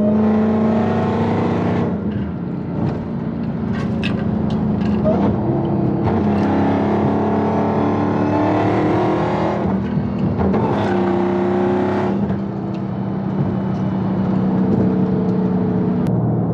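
Dodge Hellcat's supercharged V8 running at highway speed, with a steady drone that swells three times as the throttle opens and eases off.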